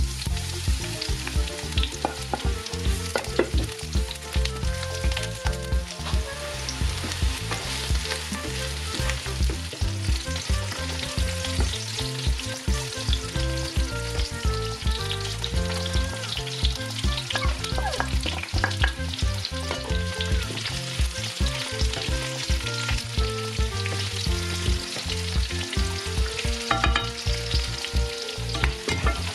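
Cubed eggplant sizzling as it fries in sunflower oil in a nonstick pan, with a wooden spatula stirring it and knocking against the pan; sliced bell and chili peppers are frying with it near the end.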